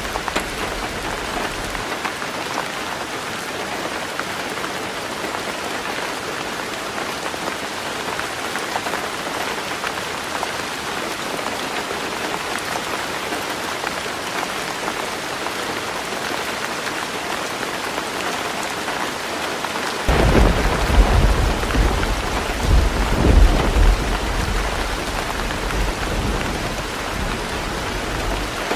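Heavy rain drumming steadily on a roof. About two-thirds of the way through, a low rumble of thunder comes in, swells twice and fades over several seconds.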